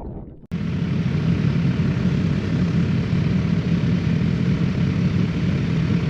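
A motorcycle engine running steadily under wind rush, starting abruptly about half a second in.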